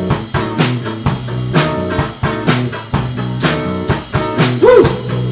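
Live blues band with guitar and drum kit playing a rock-and-roll number in a straight eight-beat rather than a shuffle. A guitar note bends up and back near the end.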